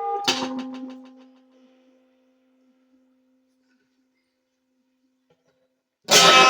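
Closing instrumental notes of a song: a low bell-like note struck about a third of a second in, ringing and slowly fading for several seconds, then another bright bell-like chord struck near the end.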